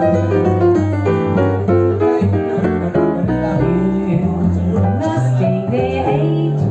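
Small jazz group playing, with a moving bass line under chords and melody.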